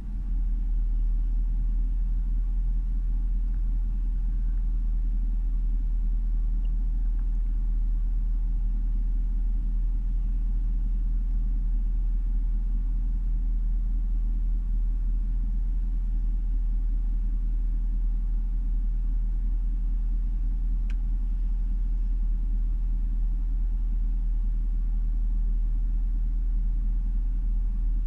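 Jaguar XFR's supercharged 5.0-litre V8 idling steadily at operating temperature, a low rumble with the rough idle that is the fault being shown.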